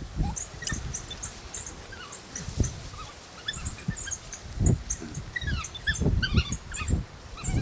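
African wild dog pups giving many short, high-pitched twittering squeaks while squabbling over food, with scattered low thuds.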